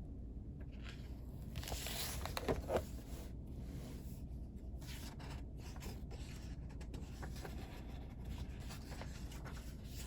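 Paper rustling and scraping on a desk, with two sharp clicks about two and a half seconds in, then lighter scattered ticks and rubs.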